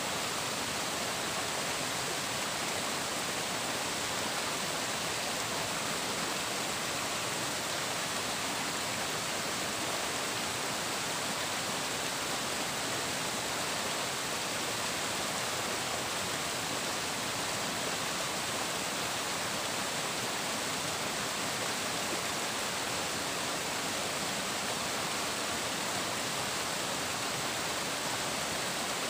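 Flowing water, rushing and splashing steadily and evenly.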